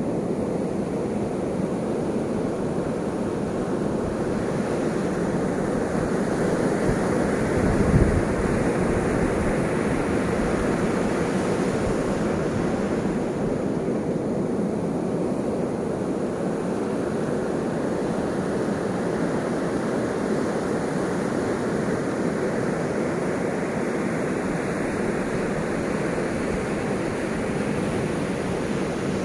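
Ocean waves breaking and washing on a shore, a continuous rushing surf that swells and eases slowly, with a brief low thump about eight seconds in.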